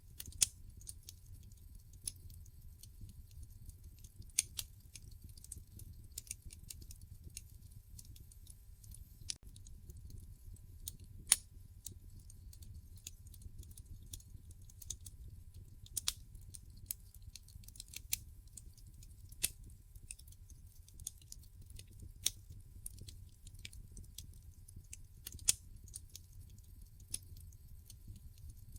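Wood fire burning in a fireplace: a steady low rumble of flames with irregular crackles and pops from the burning logs, a few of them sharp and loud.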